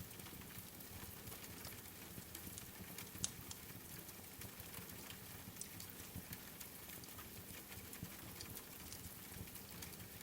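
Steady rain with scattered small crackling clicks from a wood fire, and one sharper pop about three seconds in.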